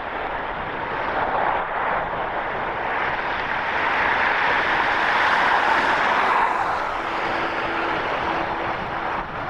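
Airbus A350 jet airliner at takeoff thrust passing close by, its twin Rolls-Royce Trent XWB engines growing louder to a peak about five or six seconds in, then fading.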